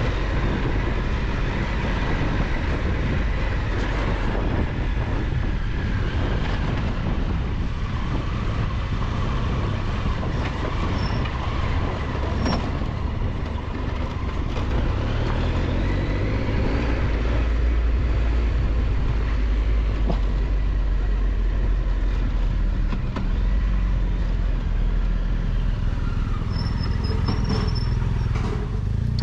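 Triumph Tiger 1200 XCX three-cylinder adventure motorcycle under way on a dirt road. The engine runs steadily over a loud low rumble, its pitch rising and falling with the throttle.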